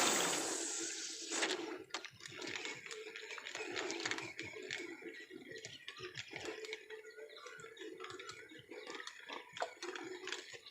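A cast with a fishing rod and reel: a sharp whoosh at the start that fades over about a second and a half, then irregular light clicks and water sounds as the line is reeled in.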